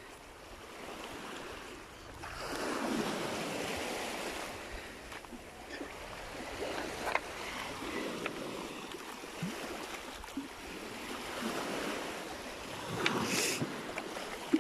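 Small sea waves washing on a stony shore, swelling and ebbing every few seconds, with scattered small clicks and knocks of stones.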